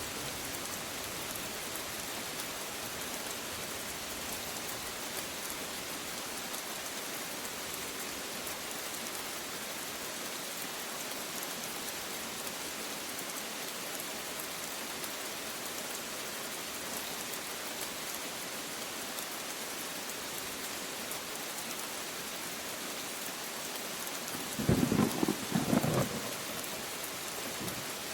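Steady rain hissing. Near the end, a short, sharp clap of thunder crackles for about a second and a half.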